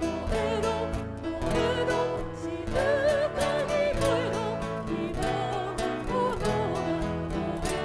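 A singing voice with vibrato carrying a melody over piano accompaniment.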